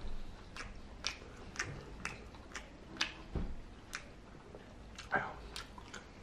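Someone chewing a mouthful of spaghetti with meat sauce close to the microphone: scattered wet mouth clicks and smacks, with a low knock about three and a half seconds in.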